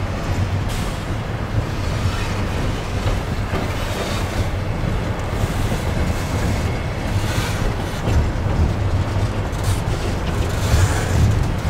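CN intermodal freight train's double-stack container well cars rolling past close by. A steady, loud rumble of steel wheels on the rails, with occasional clicks.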